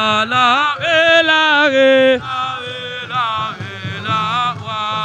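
A Wolof song: a single voice sings long, held notes that waver and bend in ornamented runs over a steady low drum beat.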